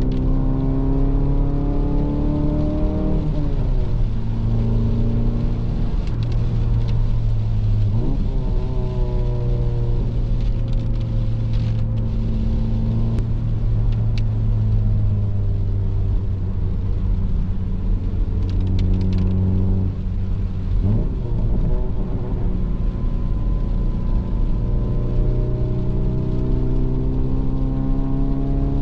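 Mitsubishi Eterna car engine pulling as the car drives, its note rising in pitch and dropping suddenly at gear changes three times, then rising again near the end.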